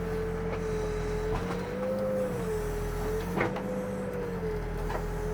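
Backhoe's diesel engine running with a steady hydraulic whine that rises and dips slightly as the bucket digs. A few short knocks come through, the loudest about three and a half seconds in.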